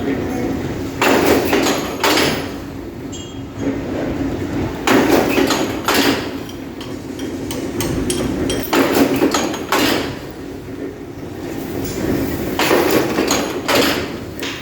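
Iron chain welding machine running through its cycle, with metallic clanks in pairs about every four seconds over a steady machine hum.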